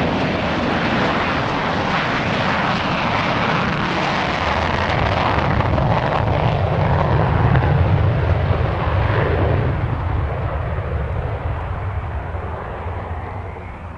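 Panavia Tornado GR1 jet flying past. The engine noise builds to its loudest about halfway through, then fades away as the high, hissing part of the sound dies off.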